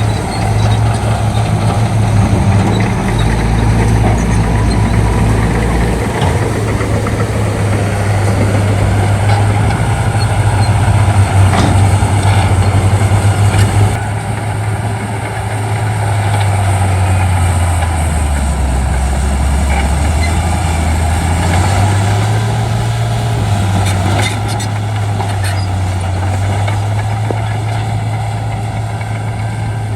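Shantui D95 bulldozer's diesel engine running hard and steadily while pushing fill. Past the middle its pitch sags and then climbs back up.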